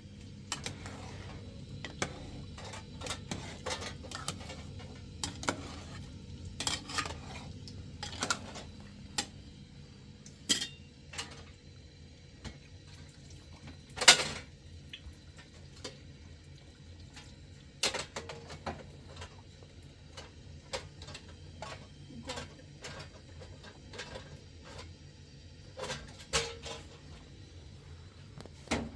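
Dishes and cutlery clinking and knocking at irregular moments over a steady low hum, with the loudest clatter about halfway through.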